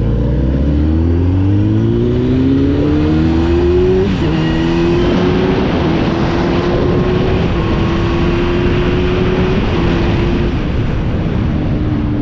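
Car engine pulling hard under acceleration, its pitch climbing steeply, with a gear change about four seconds in and another near the end, the pitch rising more slowly in the higher gear between them.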